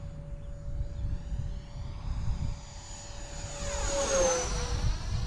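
Electric ducted-fan RC F-86 Sabre jet flying by with a steady whine that drops in pitch as it passes close about four seconds in. Wind buffets the microphone throughout.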